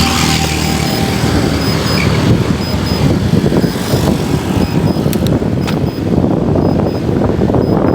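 Strong wind buffeting the microphone of a camera on a moving bicycle, a loud uneven rumble. A road vehicle's engine is heard passing in the first few seconds.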